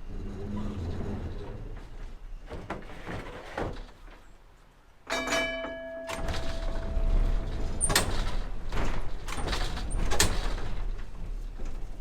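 Light rail vehicle running slowly with a low rumble and a series of clunks and knocks, as over track joints and switches. About halfway through, a steady pitched tone starts suddenly and holds for a couple of seconds.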